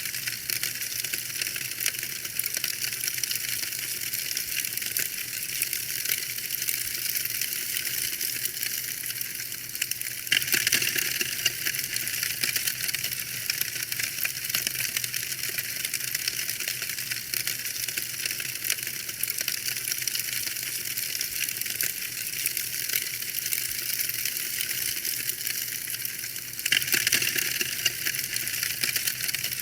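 Wood fire crackling in a fireplace: a dense run of small pops and snaps. It swells louder for a moment about a third of the way in and again near the end.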